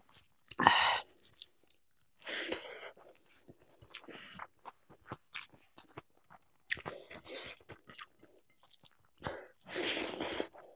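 A person chewing and biting food close to the microphone: wet mouth clicks, with a few louder crunchy bites spread through.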